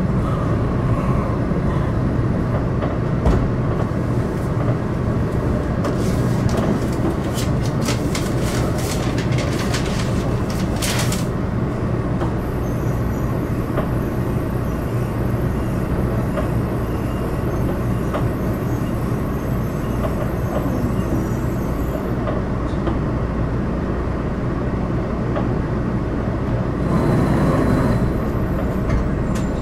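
Steady low rumble inside a 700 series Shinkansen car as the train runs, with a run of short clicks about six to eleven seconds in and a brief louder swell near the end.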